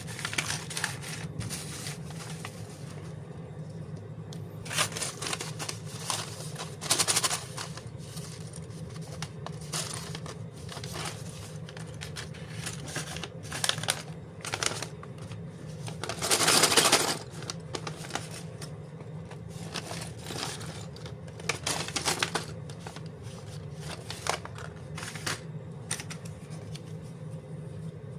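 LEGO parts bags and pieces being handled: irregular plastic crinkling, rustling and small rattles, with one longer rustle past the middle, over a steady low hum.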